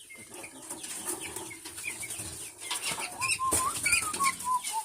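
A flock of chickens clucking and chirping, with many short falling peeps, wing flapping and scuffling. A louder drawn-out call comes in about three seconds in.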